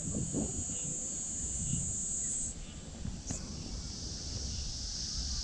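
Steady, high-pitched chorus of insects droning in the trees, its pitch shifting lower about two and a half seconds in, with a single click a little later.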